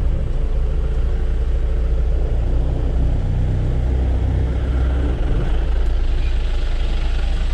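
Jeep engine running with a steady low drone, heard over the noise of the ride.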